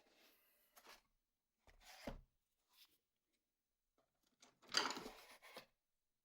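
Faint, scattered handling noises: a few short scrapes and knocks, the loudest a rustling scrape lasting about a second, around five seconds in.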